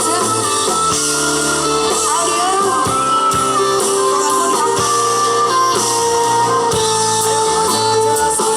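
Loud music with a singing voice and guitar, played over a large sound system of the kind used in sound horeg checks.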